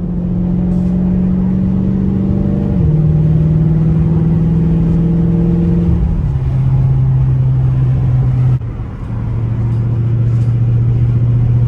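2021 Dodge Charger widebody V8 with its mid muffler deleted, driving with a loud, steady exhaust note that steps down in pitch three times as the automatic shifts up. At the last shift the sound briefly dips in loudness.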